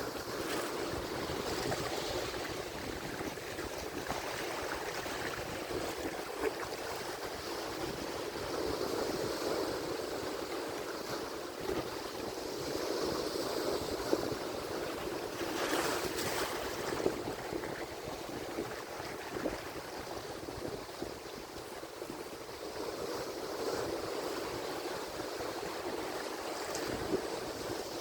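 Ocean surf: waves breaking and washing ashore in a continuous rush that swells and eases every few seconds, with one sharper breaking wash about sixteen seconds in.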